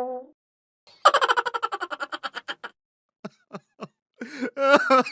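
Laughter: a fast run of giggling about a second in that slows and fades, then a few short separate laughs and a brief vocal burst near the end.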